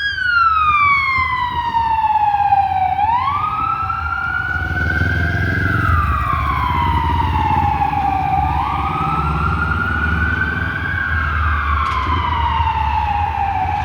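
Fire truck sirens wailing in slow rising and falling sweeps, a full cycle every five to six seconds, with a second siren overlapping a little out of step, over the low rumble of the trucks' engines.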